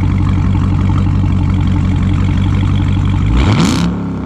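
Straight-piped Dodge Charger Scat Pack's 6.4-litre HEMI V8, mid mufflers and resonators removed, idling with a deep steady exhaust note. About three seconds in, a single quick rev climbs sharply and drops back to idle.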